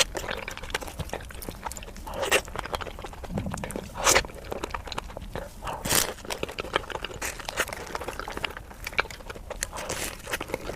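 Crispy fried chicken being bitten and chewed, with a steady crackle of crunching and louder bites about two, four and six seconds in.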